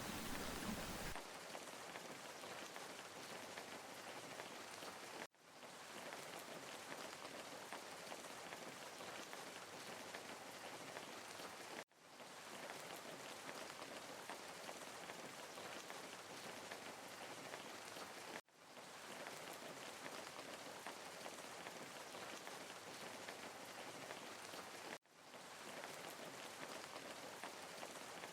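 Steady, even hiss of water noise, with no swell from wave to wave. After a fuller, deeper rush in the first second, it runs as a short loop that cuts out suddenly and fades back in about every six and a half seconds.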